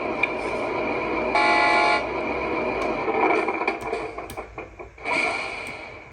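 The sound module of a 1/14-scale RC Volvo FMX dump truck plays a simulated truck engine running through its small speaker. It sounds an air-horn blast about a second in, and another horn blast about five seconds in. The engine sound fades down near the end.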